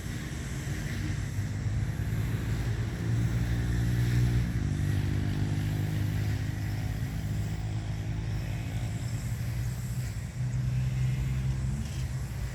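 A motor vehicle's engine rumbling steadily, with a low hum that swells about four seconds in and again near eleven seconds.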